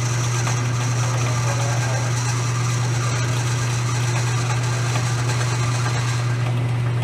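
Metal lathe running steadily with a loud, even electric motor hum under a wash of machine noise, during brass bushing turning work.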